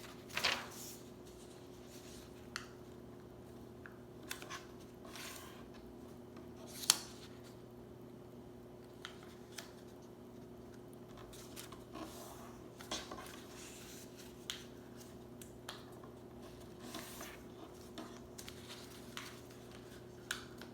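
A sheet of paper being handled and folded into a paper airplane: scattered rustles and short crisp crease sounds, the sharpest about seven seconds in, over a faint steady hum.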